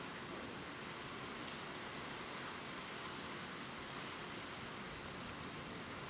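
Gentle steady rain pattering on leaves, with a few faint distinct drops ticking now and then.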